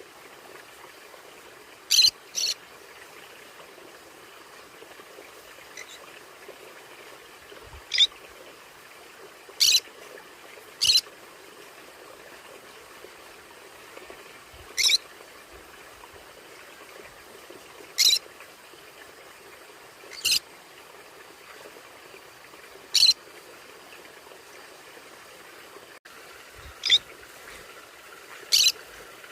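Conures calling: about eleven short, sharp, high-pitched chirps, single or in quick pairs, spaced a few seconds apart, over a steady faint hiss.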